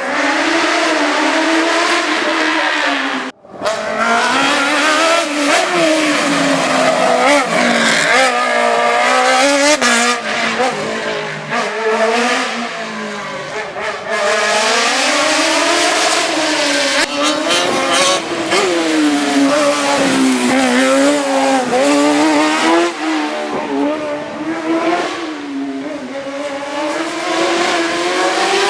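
Race car engine at full throttle, its pitch climbing and falling again and again as it accelerates, shifts and brakes through the course. The sound cuts out briefly about three seconds in.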